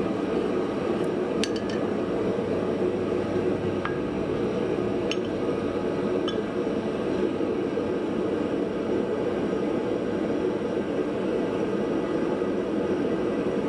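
Forge running with a steady, even rushing noise, with a few faint metallic clinks in the first half.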